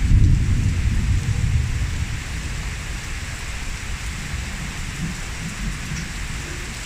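Heavy rain pouring steadily, with a low rumble of thunder at the start that fades away over the first two seconds or so.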